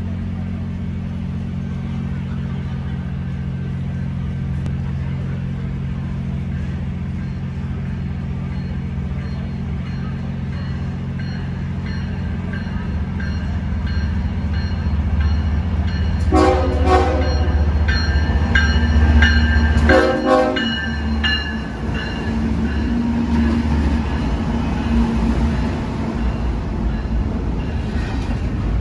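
BNSF intermodal freight train approaching with a steady low diesel drone that grows louder. About halfway through its locomotive sounds its air horn twice, a blast of a second or so and then a shorter one a few seconds later. The locomotives and intermodal cars then rush past with a loud, steady rumble.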